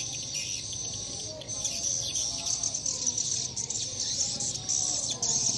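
Swiftlets chirping, many rapid high calls overlapping into a dense, continuous twittering, with a few lower, wavering calls beneath. This is the sound of a swiftlet colony at a nest house at dusk, with the birds being drawn in to roost.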